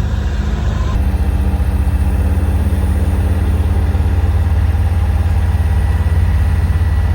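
A vehicle engine running steadily close by, with a fast, even low pulse; its tone shifts slightly about a second in.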